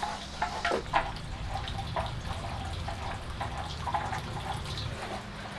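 Liquid dripping and splashing as it is poured in a kitchen, with irregular light clinks, over a low hum that stops near the end.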